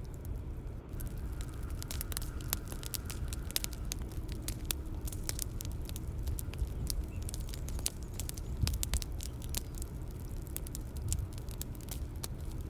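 Bonfire crackling: irregular sharp pops and snaps over a low, steady rumble.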